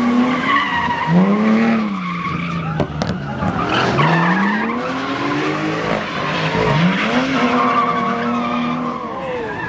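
Car engine revved up and down over and over, its pitch climbing and falling in repeated swells, as a car is drifted.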